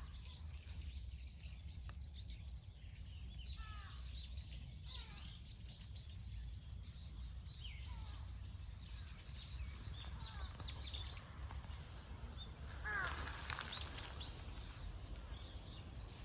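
Small birds chirping repeatedly with short, quick falling notes over a steady low background rumble, with a louder cluster of chirps about thirteen seconds in.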